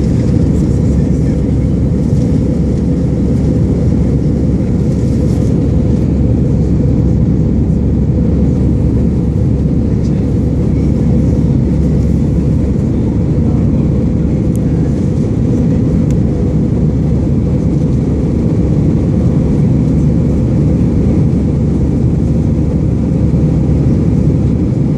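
Steady, deep rumble of an Airbus A320's engines and airflow heard inside the passenger cabin, climbing after take-off.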